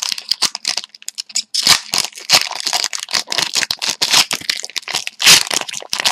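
Trading card pack wrapper being torn open and crinkled, with the cards handled, in a quick, irregular run of crackles and snaps; the loudest snaps come about two seconds in and again about five seconds in.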